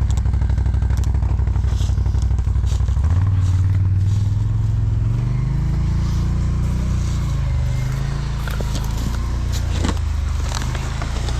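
ATV engine, just started, idling with an even pulse, then revving up about three seconds in and running at rising and falling revs.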